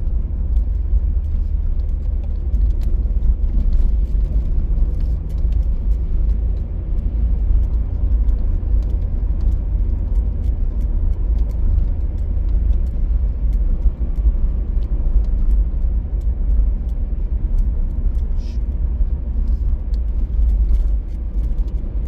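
A car driving along a road in gusty wind: a steady, heavy low rumble of road and wind noise.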